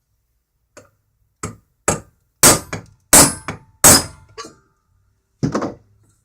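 Hammer striking a steel spike to punch a hole through the centre of a stainless steel mixing bowl: about eight blows, the three in the middle the loudest, each with a short metallic ring.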